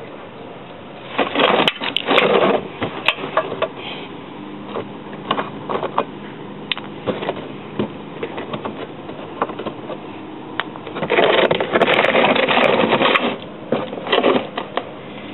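Scraping, rattling and clicking of tools and handling noise while working under the car at the oil pan drain plug, with two louder stretches of rapid rattling, one about a second in and a longer one about two-thirds of the way through.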